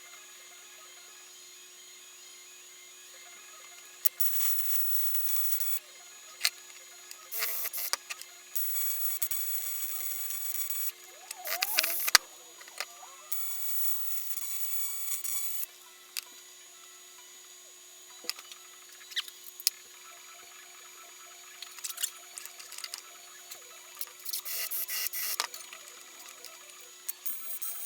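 Aluminium welding in short runs: the welding arc buzzes and hisses in bursts of one to two seconds, about five times, over a steady low hum, with clicks and a knock between the runs.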